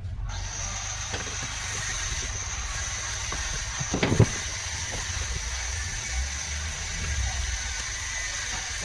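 Electric marble cutter's motor running at speed, a steady high whine over a hiss, with a short knock about four seconds in.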